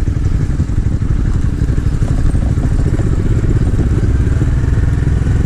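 Engine of a small 250 cc motorcycle running steadily.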